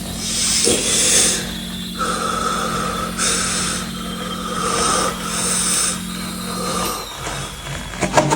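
Microwave oven running with a steady low hum, overlaid by loud hissing that swells and fades in waves. The hum stops about seven seconds in, followed by a few sharp clicks.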